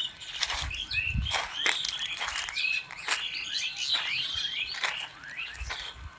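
Birds chirping throughout in many short, quick notes and brief up-sweeping calls, with a few crackles of footsteps in the forest litter in between.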